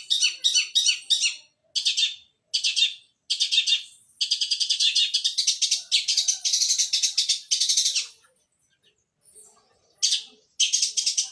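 Long-tailed shrike (cendet) singing a fast chattering song of sparrow-like chirps. It comes in short bursts at first, then a long unbroken run, then pauses for about two seconds before starting again near the end.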